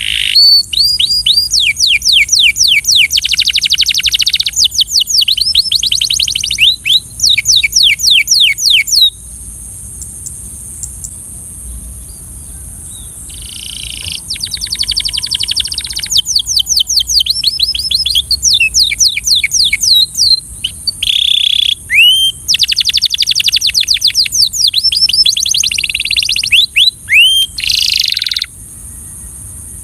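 Belgian canary singing long runs of fast trilled notes. The song stops for a few seconds about a third of the way through, resumes, and ends a little before the close.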